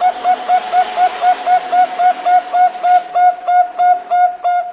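Zebra dove (Bangkok-type perkutut) calling: a fast, even string of short cooing notes at one pitch, about four or five a second.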